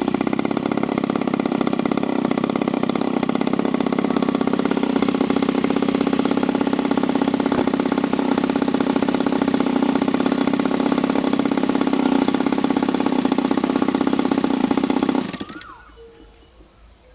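SV 26cc gasoline model-aircraft engine running steadily while turning a 17x8 propeller, then shut off about fifteen seconds in and dying away within half a second. A few faint chirps are heard after it stops.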